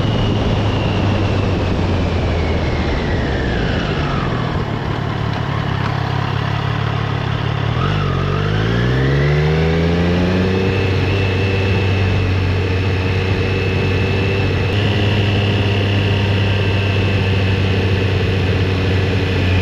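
Motorcycle engine running on the move, easing off and then accelerating again about eight seconds in, its pitch climbing before it settles to a steady cruise, over a rush of road and wind noise.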